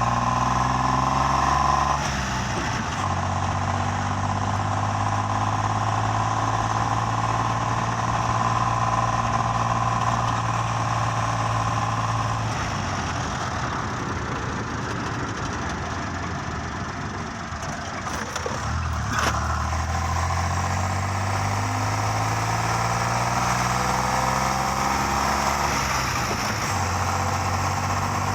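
A vehicle engine running, its pitch sliding up and then dropping sharply several times, as when a vehicle is driven through its gears.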